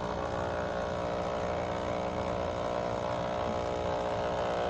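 Nescafé Dolce Gusto capsule coffee machine's pump buzzing steadily as it forces water through the coffee capsule, brewing the coffee into the cup of milk.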